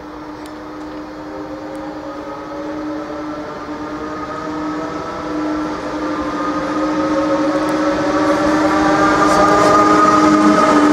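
Electric train accelerating: a whine of several tones rising slowly in pitch over a steady hum, getting louder as the train gathers speed.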